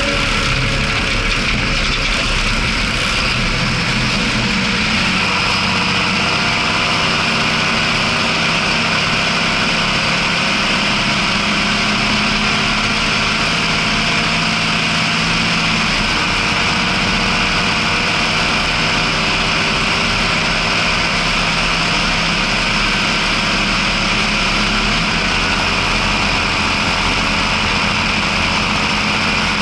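John Deere 6620 tractor's six-cylinder diesel engine running steadily while hauling, its note shifting slightly a few times as engine speed changes.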